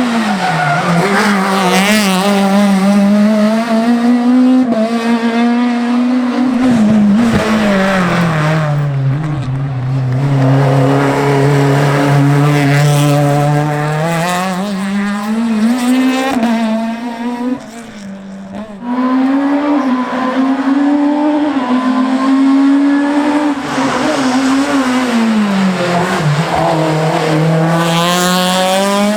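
Škoda Octavia Kit Car's 1998 cc rally engine being driven hard: the engine note climbs and falls again and again through the gears. A steadier, lower-pitched pull comes about a third of the way in, and a brief lift-off drops the sound about two thirds of the way through.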